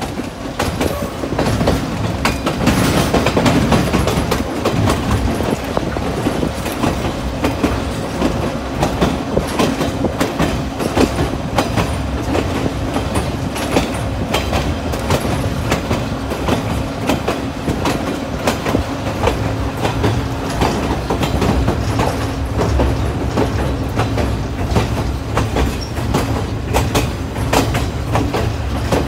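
White Pass & Yukon Route narrow-gauge passenger train rolling along the track, heard from the open platform of a coach. There is a steady rumble, a faint hum, and an uneven clatter of sharp clicks from the wheels on the rails.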